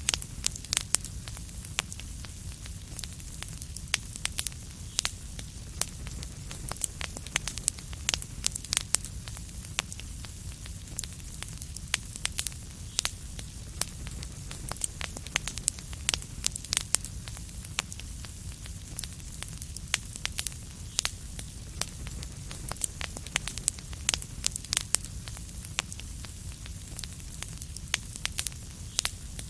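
Wood fire crackling steadily: frequent sharp pops and snaps over a low rumble and a soft hiss.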